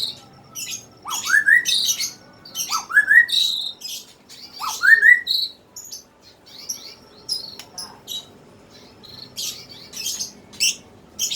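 Songbird singing: four rising whistled notes, one about every second and a half, each wrapped in quick high chattering, then a run of high chattering and twittering notes without the rising whistles in the second half.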